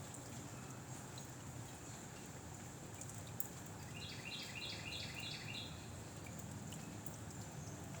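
Steady wind rumble outdoors, with a songbird giving a quick trill of about half a dozen repeated notes around the middle.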